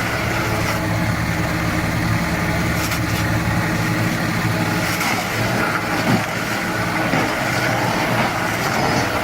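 Heavy vehicle engine running steadily; its deepest rumble drops away about three and a half seconds in.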